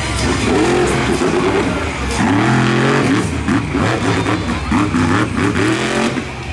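Monster truck engine revving hard, its pitch rising and falling over and over as the throttle is worked.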